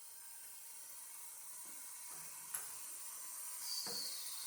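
Wilesco D32 live steam engine hissing steam as it runs, the hiss swelling a little towards the end. There is a sharp click about halfway through and a knock near the end.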